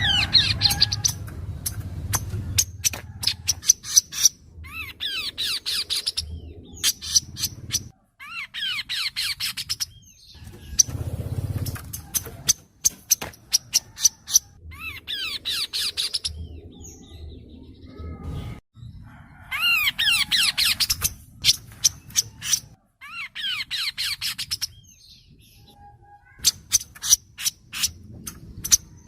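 Kaso-kaso bird singing: bursts of rapid, high chattering notes about every few seconds, with runs of sharp ticking clicks between the bursts.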